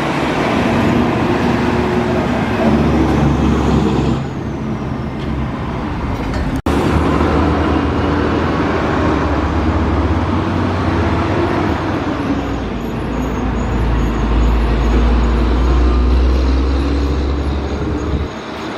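Trucks and other heavy vehicles passing on a road, a loud low engine rumble with traffic noise that rises and falls as vehicles go by. It breaks off for an instant about six and a half seconds in.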